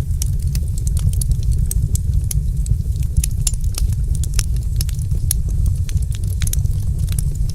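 Wood fire in a fireplace crackling, with many sharp pops and snaps, several a second, over a low steady rumble of the flames.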